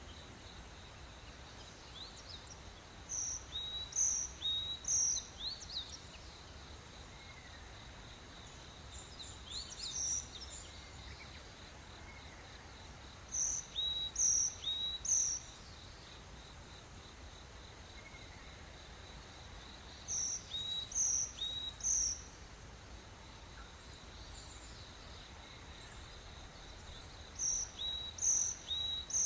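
Rainforest morning ambience: a steady high insect drone, with a bird repeating a short phrase of a few clear high notes about every seven seconds.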